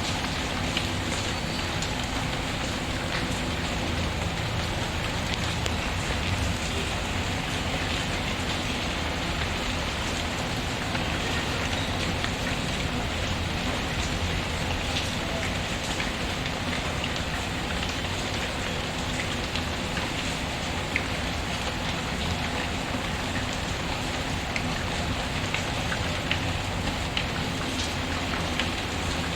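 Steady rain falling and pattering on a surface, mixed with the occasional sharp crackle of a wood fire in a fireplace.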